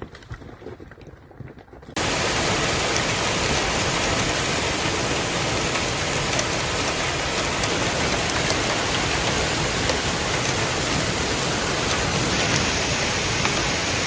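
Steady, loud rushing noise with no clear pitch or rhythm, starting abruptly about two seconds in after a quieter stretch.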